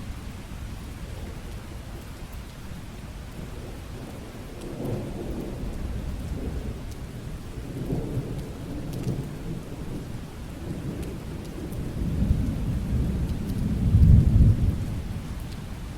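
Steady rain falling, with rolling thunder rumbling low underneath. The thunder swells in waves from about a quarter of the way in and is loudest near the end.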